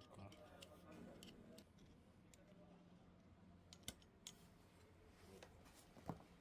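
Near silence with faint scattered clicks and light ticks, and two sharper taps about four and six seconds in.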